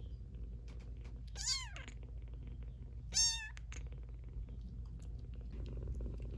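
A very young kitten, about three weeks old, meowing twice in high, thin cries, the second louder than the first. These are the insistent cries it makes when it is hungry.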